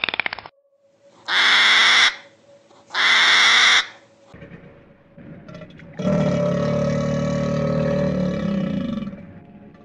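A dolphin's rapid click train cuts off just after the start. Two loud hissing huffs from a hedgehog follow, each under a second. Then a crocodile makes a low, steady growl that lasts about three seconds.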